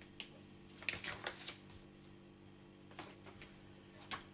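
Faint clicks and light knocks from handling a Delta coffee machine's parts while trying to get a piece to lock shut: a small cluster about a second in, then single clicks near three and four seconds, over a faint steady hum.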